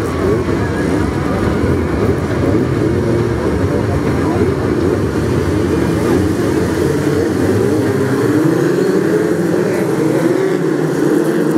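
Several BRISCA F2 stock car engines running together, their pitch wavering as the drivers blip the throttles, with revs climbing in the last few seconds.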